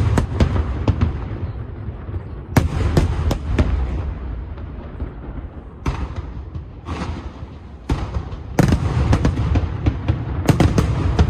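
Aerial fireworks bursting in a rapid series of sharp bangs and booms over a low rumble, with a short lull in the middle and a dense run of bangs near the end.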